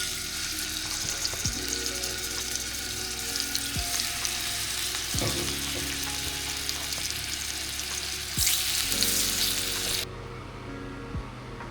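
Chicken thighs sizzling in a hot pan. The sizzle grows louder for a moment, then cuts off abruptly about ten seconds in.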